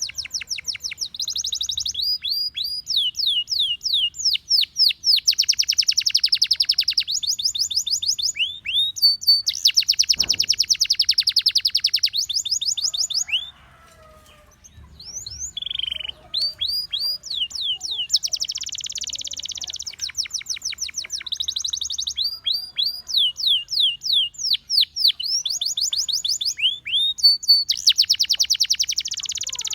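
Gloster canary singing: fast trills of rapidly repeated high notes and runs of quick downward-sliding whistles, with a pause of about a second and a half about halfway through before the song resumes.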